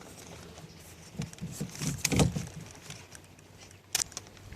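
Knocks and clatter of gear being handled in a boat, the loudest knock about two seconds in and a sharp click near the end, over a steady low hum.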